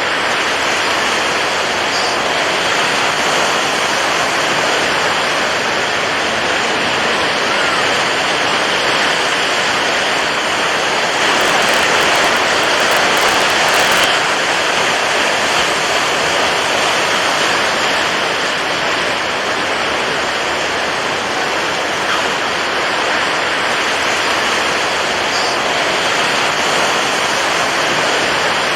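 Rushing water, a steady even hiss with a slight swell in level about halfway through.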